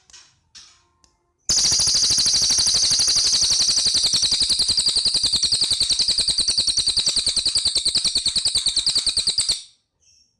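Cililin bird giving a few short chirps, then a long, loud, rapid rattling trill of evenly spaced notes that starts about a second and a half in and lasts about eight seconds before cutting off.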